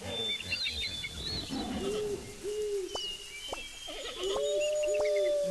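Birds calling: a series of short low coos, with a longer held note near the end and higher chirps and whistles above them.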